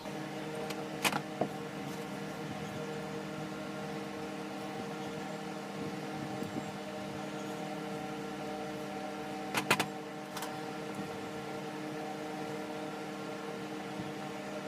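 Electric table fan running with a steady, even hum. A few sharp clicks stand out: one about a second in and a quick double click near the ten-second mark.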